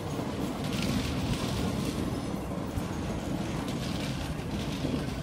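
ScotRail Class 320 electric multiple unit running past along the platform: a steady rumble of wheels on the rails.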